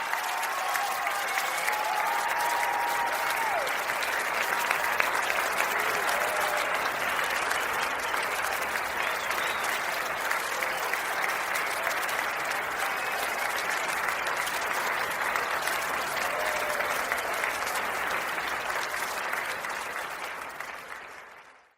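Large audience applauding steadily, fading out over the last couple of seconds.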